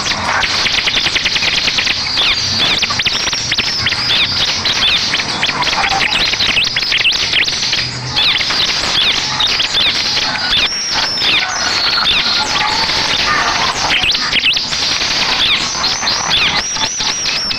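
Bar-winged prinia (ciblek) song: an unbroken stream of high, rapid chirps and trills, turning to a quick run of repeated looping notes near the end.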